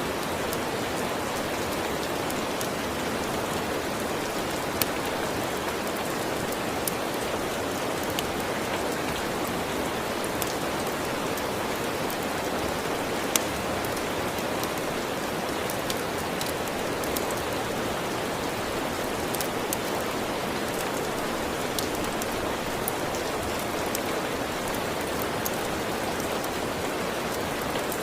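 Steady rain mixed with a wood fire, scattered sharp crackles and pops standing out over the even rush of rain. One pop about 13 seconds in is the loudest.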